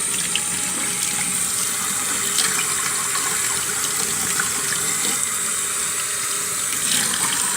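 Water running steadily from a tap, with a few faint ticks of handling.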